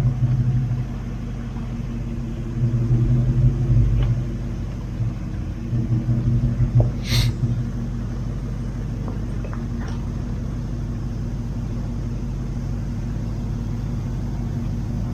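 4WD engine running at low speed off-road, a steady low drone that swells under throttle three times in the first seven seconds or so, with one brief sharp high sound about seven seconds in.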